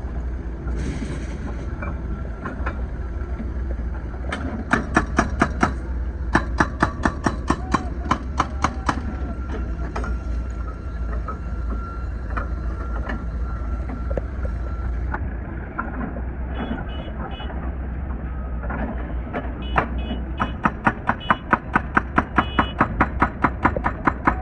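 Wheeled excavator's hydraulic breaker hammering asphalt in rapid runs of about five blows a second, over the steady running of the excavator's diesel engine. The hammering comes in two main runs, stopping for several seconds in between with only a few scattered blows.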